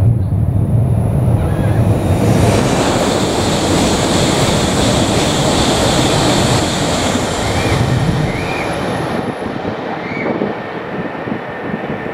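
E7/W7 series Shinkansen train passing at speed on a concrete viaduct: a loud, steady rush of wheel and air noise that swells a couple of seconds in and dies away after about nine seconds.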